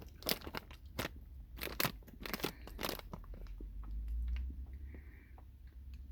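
Mouth noises of a Warheads Ooze Chewz chewy sour candy being chewed close to the microphone: irregular wet clicks, thickest in the first three seconds, with a low rumble about four seconds in.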